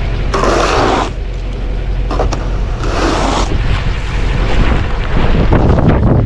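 Wind buffeting the microphone: a steady heavy rumble with two louder hissing gusts, about half a second in and again about three seconds in.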